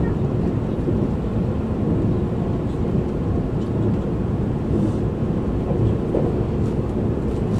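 Steady rumble of an E257 series 5500 electric train running, heard from inside the passenger car.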